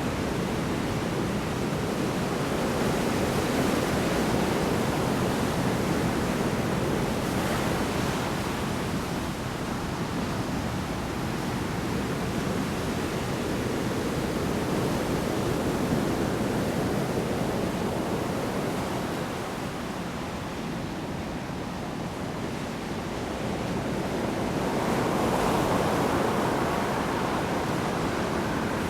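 Large storm waves breaking on the shore: a continuous rush of surf that swells a few seconds in and again near the end, easing in between.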